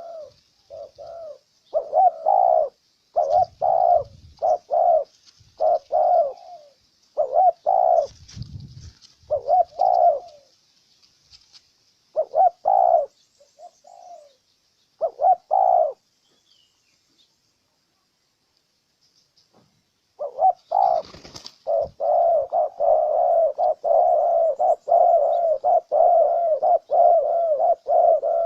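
Spotted doves (tekukur) cooing: short repeated coos in bursts, a pause of a few seconds in the middle, then a fast, unbroken run of coos through the last part.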